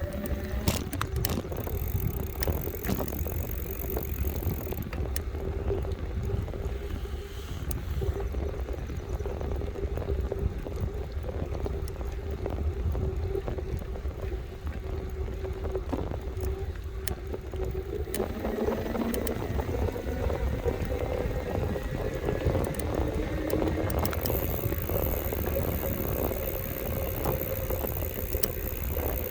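Electric bike riding along: heavy wind rumble on the microphone, a steady motor whine that rises in pitch about two-thirds of the way through, and frequent small clicks and rattles.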